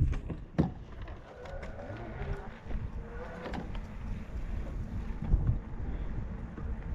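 Wind buffeting the microphone while riding a bicycle, a steady low rumble, with a few sharp knocks near the start and again about half a second in.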